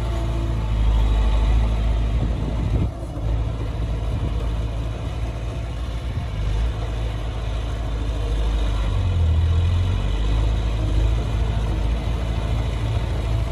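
Heavy diesel engine of earthmoving machinery running steadily with a deep rumble, dipping briefly about three seconds in and swelling a little near the middle.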